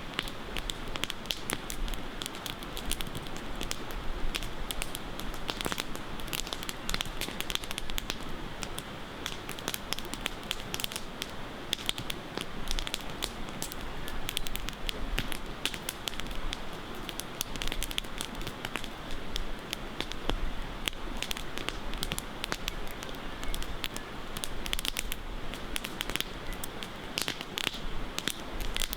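Campfire crackling: burning wood giving off irregular sharp pops and snaps over a steady hiss.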